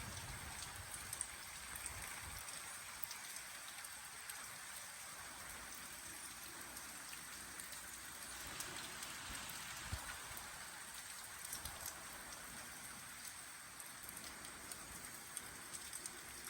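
Heavy rain falling steadily, a dense hiss of drops pattering on surfaces with scattered individual drop ticks.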